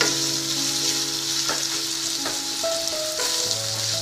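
Sliced onion with ginger and garlic paste sizzling steadily in hot oil in a kadai, stirred with a wooden spatula that scrapes the pan a couple of times.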